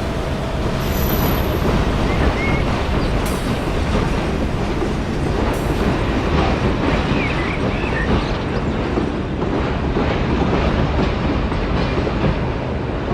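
A train running, a steady noise throughout with a few faint, brief squeals about halfway through and again near the end.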